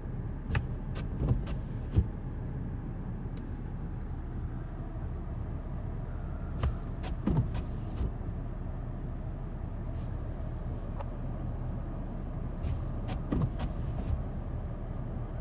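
A steady low rumble of an idling vehicle engine, with clusters of short clicks and knocks about half a second in, around seven seconds in and again near thirteen seconds.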